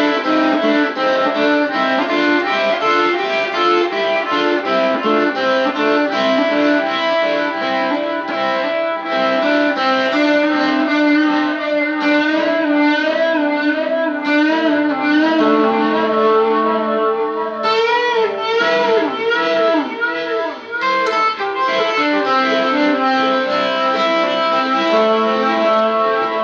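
Electric guitar playing a rock solo through effects: quick runs of notes over held tones, with wavering bent notes about two thirds of the way through.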